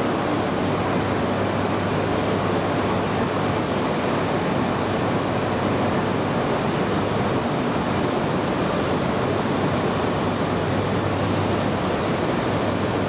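Steady rushing noise of a train running, even and unbroken, with a low steady hum underneath.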